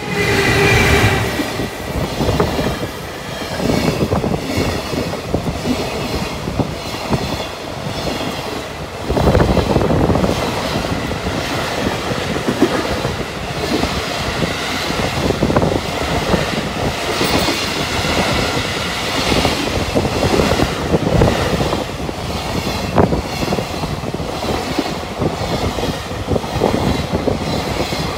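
Container freight train hauled by an EF210 electric locomotive running through a station at speed, its long line of container wagons rolling past close by. The wheels clatter rhythmically over rail joints. It rises sharply just after the start and surges again about a third of the way in.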